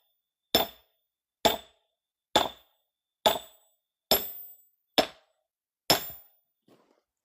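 A hammer tapping a steel log-splitting wedge set in a log: seven sharp metallic clinks with a brief ring, a little under a second apart, then a faint eighth near the end. The wedge is not biting in; it is working its way back up out of the wood.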